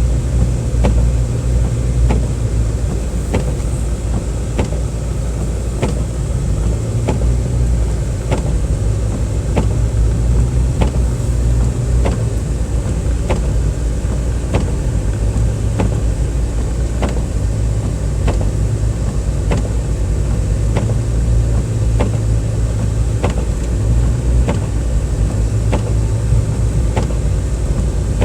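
Car cabin noise while driving in snow: a steady low engine and road rumble, with a sharp tick repeating evenly about every two-thirds of a second.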